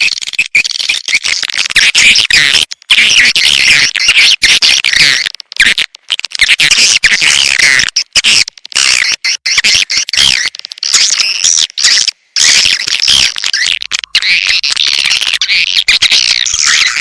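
Swiftlet lure call: edible-nest swiftlets chirping and twittering densely and without pause, the recorded calls used to draw swiftlets to a nesting house. The sound cuts out abruptly for a moment several times.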